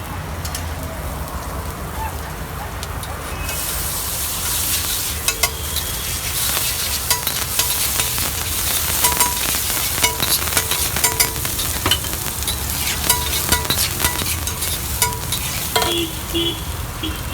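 Egg frying in hot oil, sizzling loudly, the sizzle swelling about three and a half seconds in. Frequent sharp clicks and taps run through it as the food is worked on the pan.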